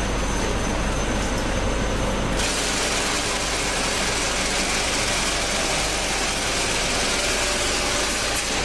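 Flour filling and packing machine running steadily with a low hum. A strong hiss joins it sharply about two and a half seconds in and lasts until near the end.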